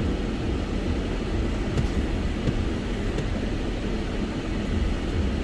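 Steady engine and road rumble heard inside a moving car's cabin, with a few faint light knocks.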